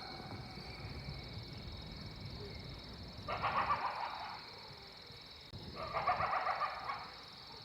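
Chickens clucking in two short bouts of rapid, choppy calls, one about three seconds in and another about six seconds in.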